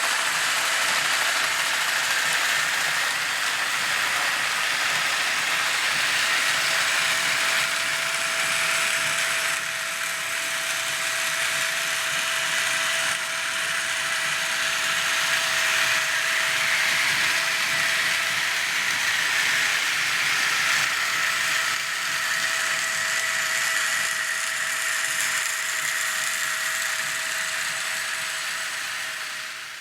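Small electric motor and plastic gearbox of a battery-powered Tomy toy train whirring steadily, with a constant hum under a rough gear rattle.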